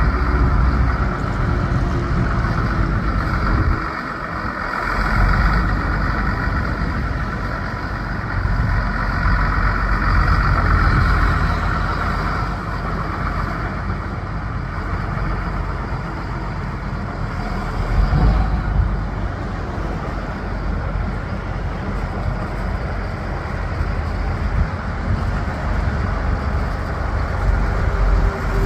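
Diesel engine of a John Deere 8770 articulated four-wheel-drive tractor running steadily. It dips briefly about four seconds in, then picks up again.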